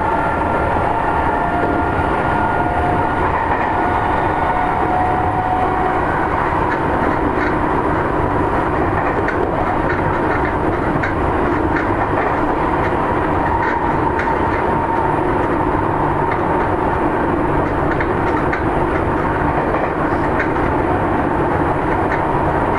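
Seibu 9000 series electric commuter train running, heard from on board: a steady rumble of wheels on rail. A faint motor whine fades out within the first few seconds, and rail-joint clicks grow plainer later on.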